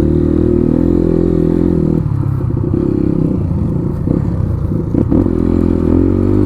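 Motorcycle engine running steadily under way on a rough dirt road, with a few sharp knocks and clatter from the road surface about four to five seconds in.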